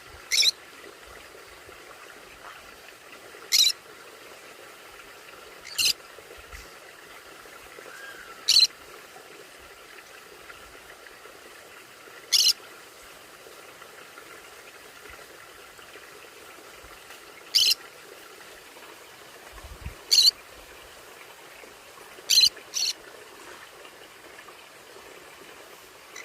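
Pet conures giving short, sharp, high-pitched calls, about nine of them, a few seconds apart, with two in quick succession near the end.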